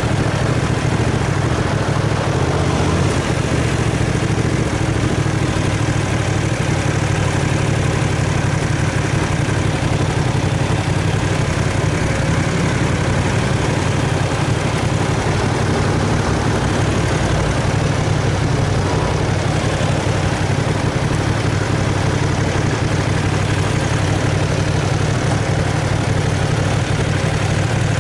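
Aprilia Caponord 1200's V-twin engine idling steadily while the bike waits at a traffic light.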